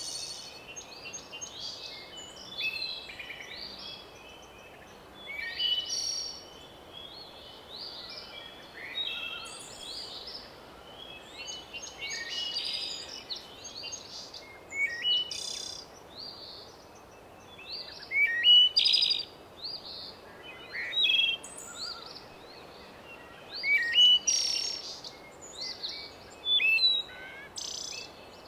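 Songbirds singing and chirping in short, repeated phrases over a steady background hiss.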